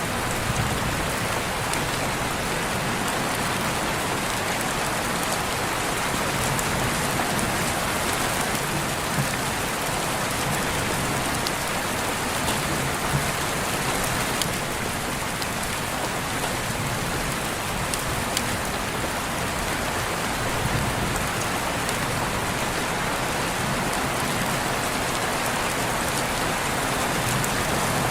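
Steady heavy rain falling, a dense even hiss with scattered individual drops ticking on surfaces.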